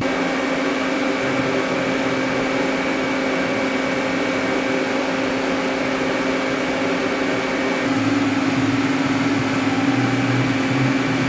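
Arc welding on steel during a test weld: a steady hiss with a low electrical hum, shifting slightly about eight seconds in.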